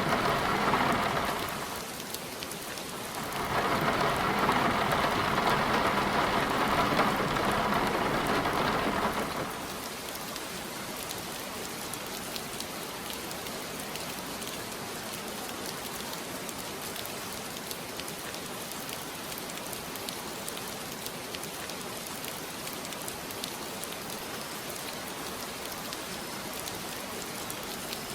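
Steady rain falling, with two louder swells in the first ten seconds, the second lasting about six seconds, before it settles into an even hiss.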